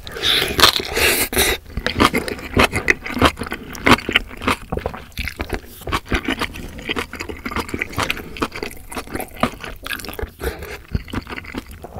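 Close-miked eating sounds: a mouthful of kimchi and ramyeon noodles chewed with wet crunching and smacking, densest in the first couple of seconds. A wooden spoon then scoops broth from the bowl and is eaten from, with more wet chewing.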